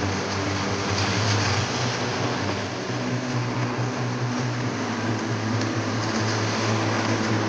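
Rain falling as a steady hiss, over a steady low mechanical hum.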